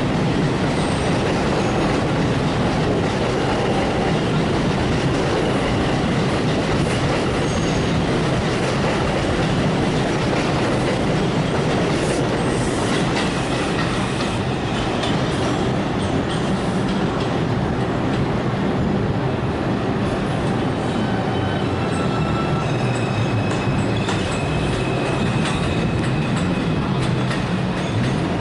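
NYC Subway R142 train running on the rails as it departs, a steady rumble with wheels clicking over rail joints and faint high wheel squeals now and then.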